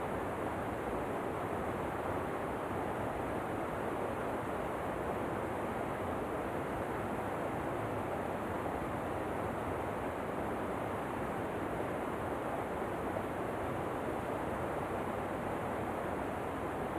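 Steady rush of falling water, an even waterfall noise that does not change in level or character.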